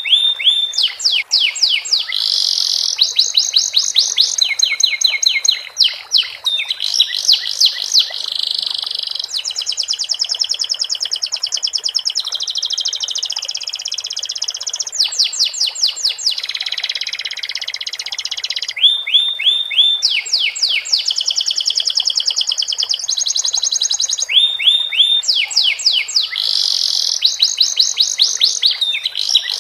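Domestic canary singing a continuous song of fast repeated trills and rolling phrases, its song filled with sikatan londo (flycatcher) phrases.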